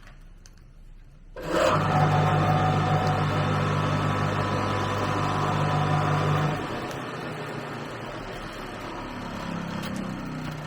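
A machine's motor starts suddenly and runs with a steady hum and grinding noise, then drops to a lower, quieter running about five seconds later.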